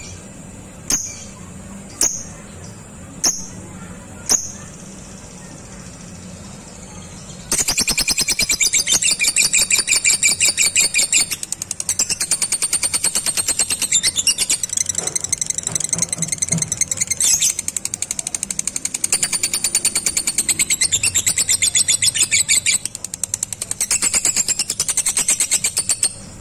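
Lovebird calling. First come five sharp single chirps about a second apart. From about seven seconds in it breaks into a long, rapid, high-pitched chattering trill, the 'ngekek' call, which runs on with a few brief breaks.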